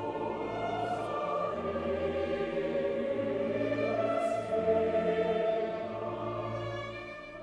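Dramatic choral music with an orchestra: choir voices hold sustained notes over deep bass notes, swelling and easing off toward the end.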